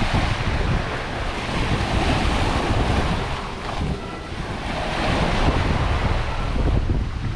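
Sea waves washing onto a beach, the surf swelling and fading, with wind rumbling on the microphone.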